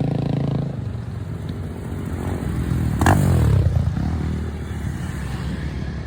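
Motorcycles riding past in a group. One passes close about three seconds in, the loudest moment, its engine note dropping in pitch as it goes by.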